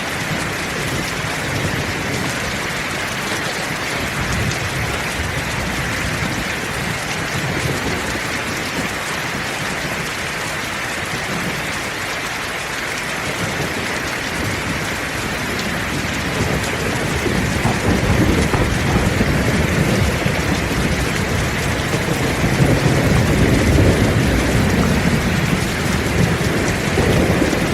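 Heavy rain falling steadily, with a long low rumble of thunder that builds from about halfway through and is loudest near the end.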